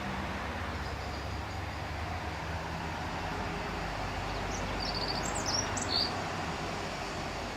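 A small bird gives a short run of high chirping notes, bunched together about two-thirds of the way in, over a steady low mechanical hum.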